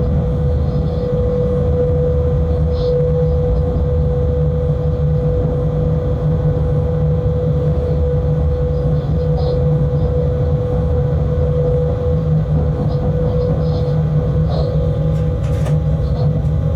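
Freight locomotive running, heard from inside the cab: a steady low rumble with a steady droning tone over it and a few faint ticks.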